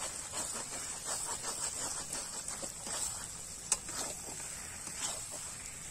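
Pork curry sizzling in a large metal kadai while a steel spatula stirs and scrapes through it, giving a run of short irregular scraping strokes over a steady hiss. A single sharp tap comes about three and a half seconds in.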